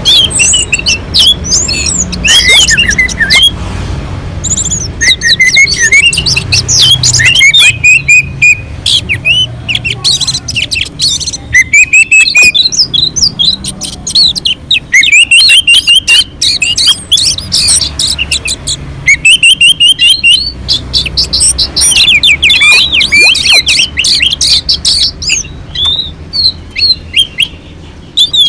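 Orange-headed thrush singing a loud, continuous, varied song of quick whistles, slurred sweeps and rapid chattering notes, over a faint low hum.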